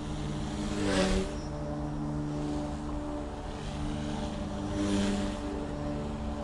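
Goosky S1 collective-pitch RC micro helicopter running: a steady electric motor and rotor hum, swelling twice into a louder whoosh, about a second in and again about five seconds in.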